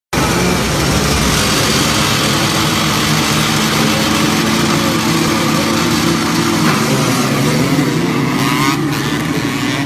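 Motocross dirt bike engines running loudly and steadily, the engine pitch wavering and shifting after about seven seconds.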